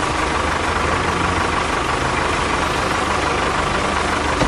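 An engine running steadily at idle, with a constant whine over a low, pulsing rumble.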